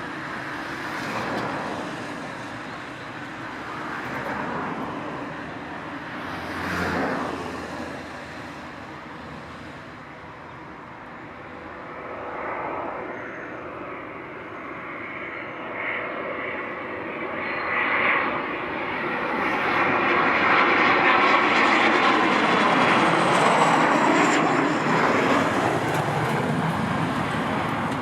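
Engine noise of an airplane coming in to land, a steady rushing rumble that swells several times and then builds to its loudest in the second half before easing off near the end.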